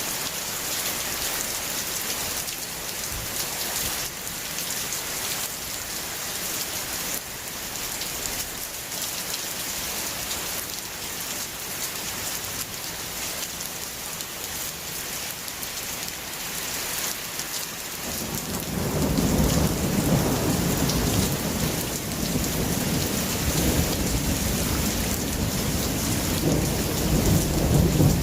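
Steady rain hissing on surfaces. About two-thirds of the way in, a long low rumble of thunder comes in and grows louder near the end.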